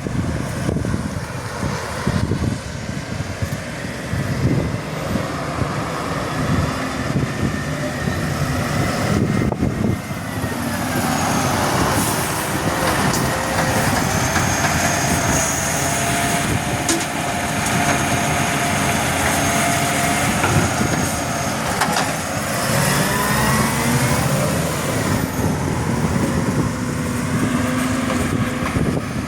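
Garbage truck running, its engine steady, with a whining tone that holds level through the middle and then glides in pitch.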